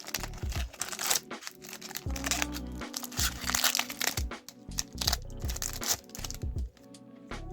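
Foil wrapper of a Pokémon booster pack crinkling and tearing as it is opened by hand, with background music playing.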